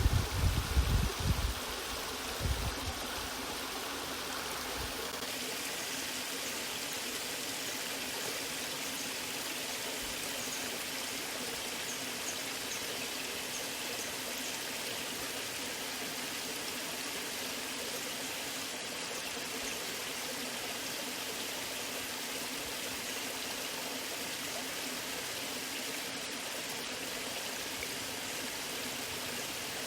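Natural waterfall water rushing and splashing in a steady, even wash. There are a few loud low thumps in the first two or three seconds.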